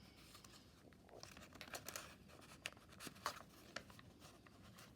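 Faint rustling and soft crinkles of paper pages being handled and turned in a handmade paper journal, with a few small ticks.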